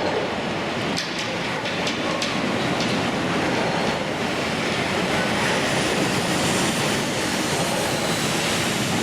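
A train running into the station on the rails: a steady rolling rumble with a few sharp clicks in the first few seconds.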